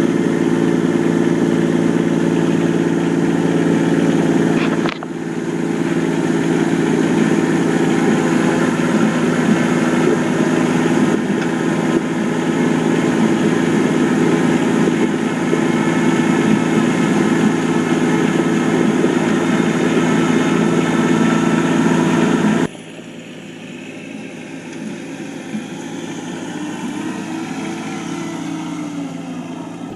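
Yanmar SC2450 compact tractor's diesel engine running steadily. It drops away suddenly about five seconds in and again about three quarters of the way through, continuing quieter after the second drop.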